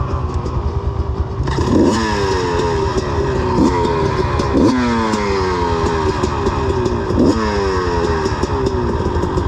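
Dirt bike engine blipped sharply four times, each rev dropping back down, over a steady low rumble of engines running.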